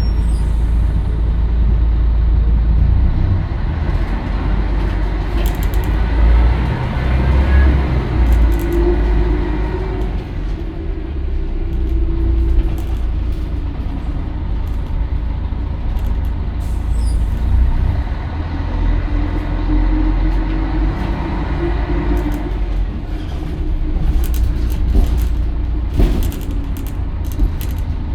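Scania L113CRL bus's six-cylinder diesel engine running under way, with a low rumble and a whine that rises and falls twice as the bus pulls away and eases off. Sharp clicks and rattles come through, thickest near the end.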